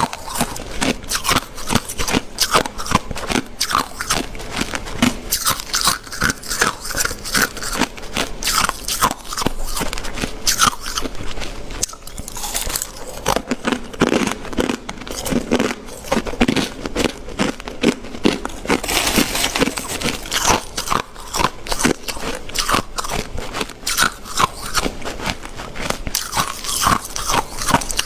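Close-miked ice being bitten and chewed: a steady run of rapid, crackly crunches, with a brief lull about twelve seconds in.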